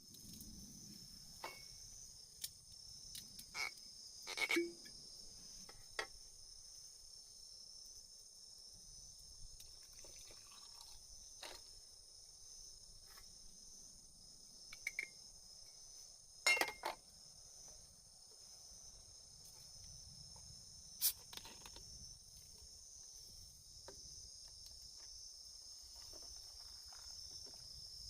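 Crickets and other autumn insects chirping steadily, a continuous high-pitched chorus, with scattered sharp clicks and knocks, the loudest about a third and halfway through.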